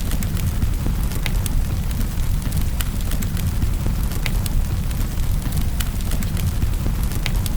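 Wood fire crackling in a fireplace, with irregular sharp pops over a steady low rumble and an even rain-like hiss.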